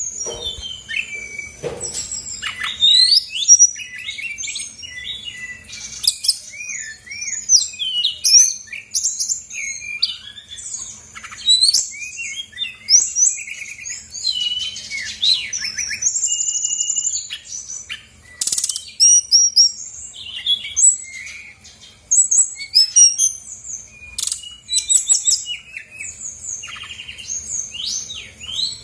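Brown-chested jungle flycatcher singing a fast, varied song of chirps, whistled slides and trills in quick bursts with short pauses, running through its repertoire of learned, mimicked phrases.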